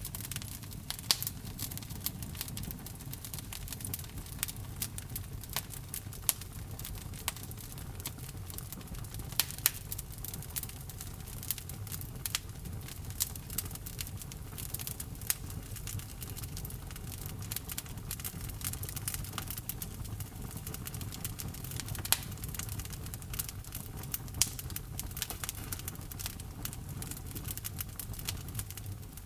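Wood fire burning in a fireplace: logs crackling, with frequent sharp irregular pops over a steady low rumble of the flames.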